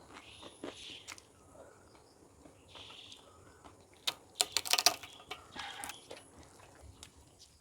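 Close-miked eating: chewing and small mouth clicks, with a burst of loud, crisp crunching about four and a half seconds in.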